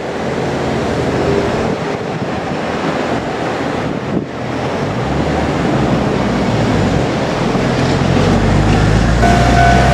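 JR Kyushu 817 series electric train running past with a steady rumble, its motor hum climbing slowly in pitch over the second half. A steady horn tone starts near the end.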